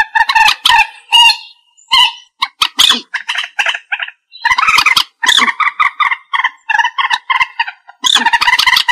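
Common moorhen calling: rapid runs of loud, short call notes, several a second, in bouts broken by brief pauses.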